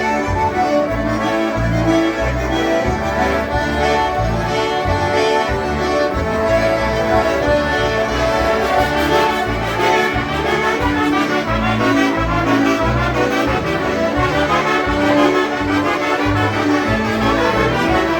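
A group of concertinas playing a polka live, with sustained reedy chords over a steady oom-pah bass beat.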